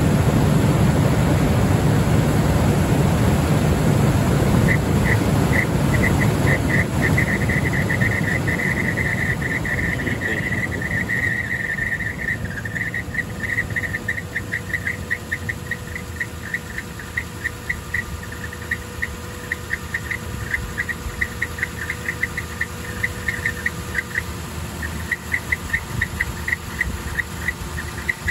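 Toyota Land Cruiser 200 idling after start-up, with its viscous fan clutch squeaking. About five seconds in a high squeak begins, runs steadily for a few seconds, then turns into rapid chirps a few times a second over the engine's idle. The owner takes the squeak for a failing fan clutch.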